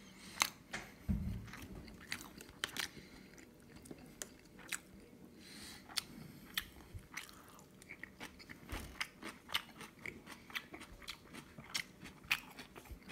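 Close-up chewing of a Korean rice burger: irregular wet clicking and smacking mouth sounds, with a soft low bump about a second in.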